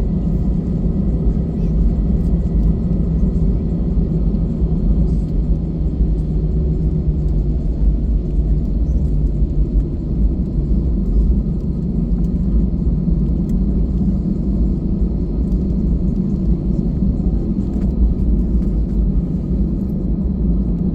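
Steady low rumble of an airliner's jet engines and rushing air, heard inside the passenger cabin, with faint steady whining tones above it.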